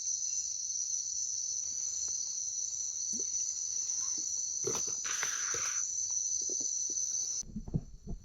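Night insect chorus of crickets and katydids: a dense, steady, high-pitched trilling that drops away suddenly near the end. There is a short burst of noise about five seconds in.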